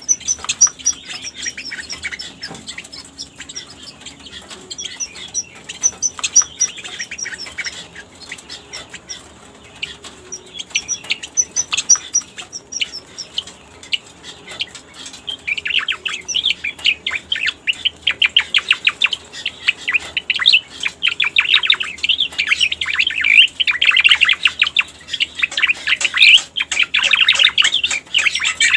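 Cica koreng (striated grassbird) song from a bird-lure recording. The first half holds series of quick, high, thin notes. About halfway in, a louder, dense run of rapid chattering notes begins and keeps on.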